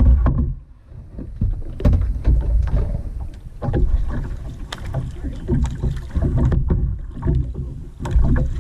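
Kayak paddling: paddle strokes in the water, with low rumbling swells and a few sharp knocks.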